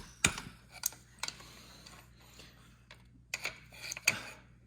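Scattered sharp metallic clicks and clinks of hand tools and small carburetor parts being handled during carburetor disassembly, with a quiet gap in the middle.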